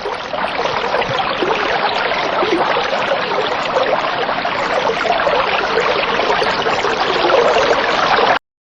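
Steady rushing, splashing noise like running water, cutting off suddenly near the end.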